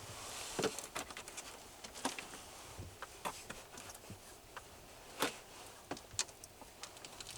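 Hiking boots stepping and scraping on an icy, snowy mountain trail: irregular footfalls and crunches, a few sharper than the rest.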